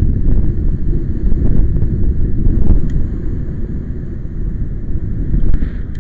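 Strong wind buffeting the microphone: a loud, gusting low rumble, with a brief higher hiss near the end.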